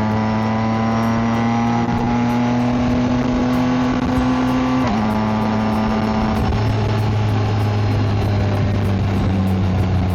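BMW K1600GT motorcycle's inline-six engine and exhaust under way, its pitch rising steadily as it accelerates, then dropping sharply about five seconds in at a gear upshift before pulling on steadily.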